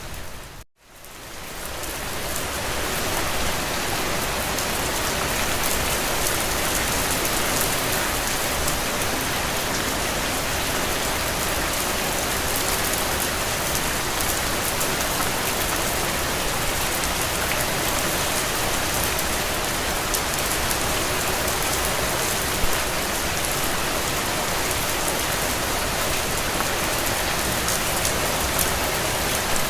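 Steady rain pattering on a window pane, an even hiss of drops. It cuts out briefly under a second in and fades back up over a couple of seconds, with one slightly louder drop about two-thirds of the way through.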